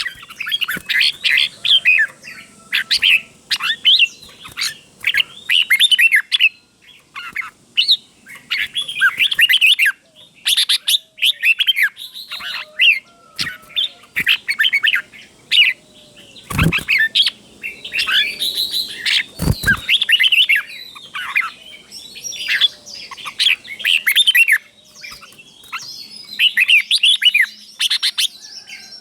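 Red-whiskered bulbul singing, short bright warbled phrases in quick succession, the phrases doubled in pairs. Two dull thumps a little past halfway, about three seconds apart.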